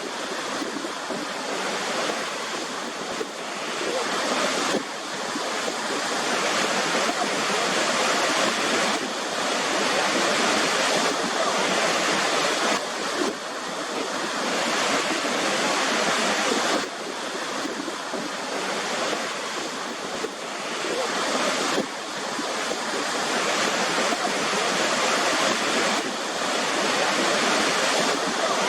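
Waterfall: a steady rush of falling water with no distinct splashes, shifting abruptly in level a few times.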